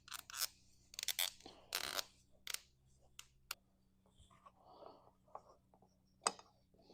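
A series of short scrapes and sharp clicks from tools and small pieces being handled on a workbench, over a faint steady hum.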